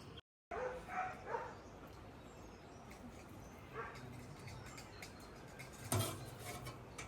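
A dog barking in short bursts, a few barks about a second in and another a few seconds later, with a sharp knock near the end.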